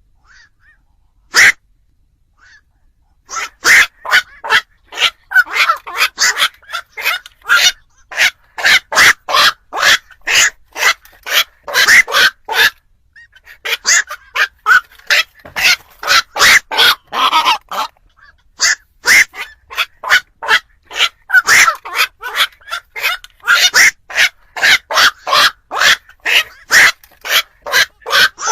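Black-crowned night herons calling: short, harsh croaks repeated rapidly, several a second, in long runs. There are single calls near the start and brief pauses a few seconds in and again about two-thirds of the way through.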